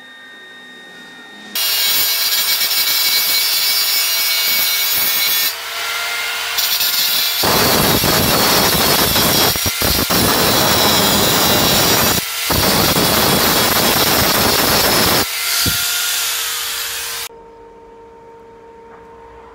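A power tool runs for about sixteen seconds and works into metal, with a loud hiss and a faint motor whine. About halfway through the sound turns heavier and fuller under load, broken twice by short dips, then eases off and cuts out suddenly.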